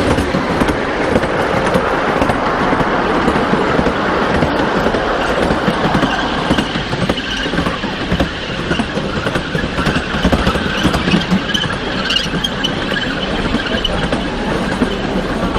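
Miniature ride-on train running along its track, a steady rattle with a high wheel squeal coming in about halfway through.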